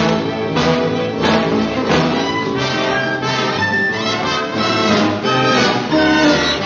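Brisk orchestral cartoon score with prominent brass and accented hits.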